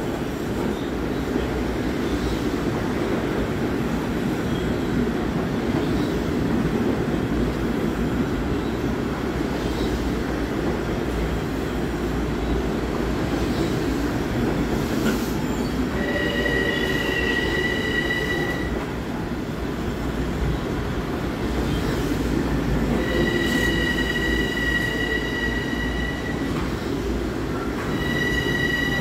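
LIRR M7 electric multiple-unit train pulling into a station platform, with a steady rolling rumble. A high-pitched squeal comes in twice in the second half and returns near the end, falling in pitch.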